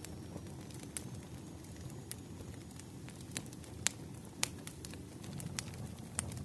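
Wood fire burning with a steady low rumble and scattered sharp crackles and pops; the two loudest pops come a little past the middle.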